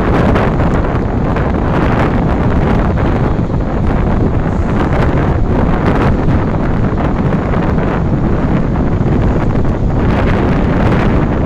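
Strong wind buffeting the microphone: a loud, steady rumble of noise with no break.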